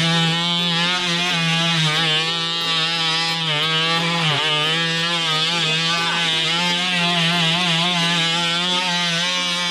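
Worx WX696 oscillating multi-tool running steadily with a high buzz while its blade cuts firewood; the pitch sags briefly about four seconds in as the blade bites into the wood.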